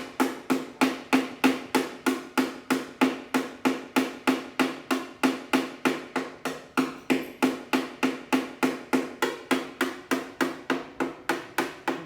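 Hammer beating steadily on a Vespa scooter's pressed-steel floor panel, about three blows a second, each with a short metallic ring.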